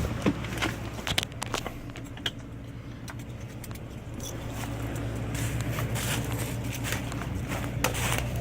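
A steady low engine hum from an idling vehicle, with scattered clicks and crunches of people stepping and picking through trackside gravel, mostly in the first two seconds and again near the end.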